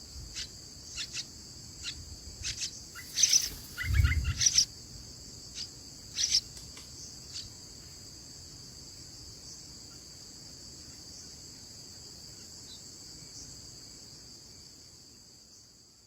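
Steady high insect trill, like crickets, with short bird chirps scattered through the first half and a low thump about four seconds in; the insect sound fades out near the end.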